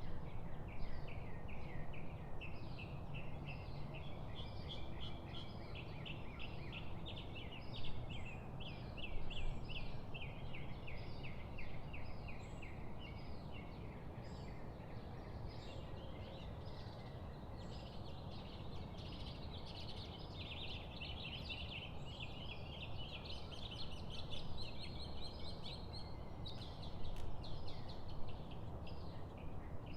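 Songbirds chirping and trilling in fast runs of short repeated notes, with many calls overlapping, over a steady low rush of background noise.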